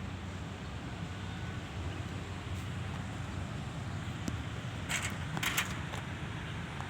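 Steady low background rumble, with two short crackles about five seconds in.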